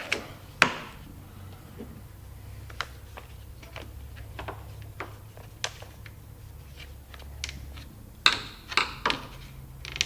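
Scattered sharp plastic clicks and taps as small push-in plastic rivets and liftgate trim are worked into place, with a quick run of louder clicks about eight seconds in.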